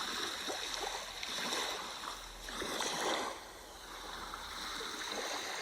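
Sea waves washing in, a steady rush that swells about halfway through and then eases back.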